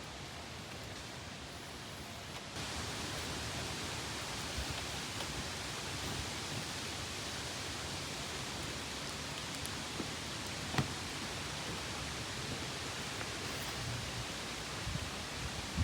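Steady rain falling, an even hiss that grows a little fuller about two and a half seconds in, with a few separate drop ticks.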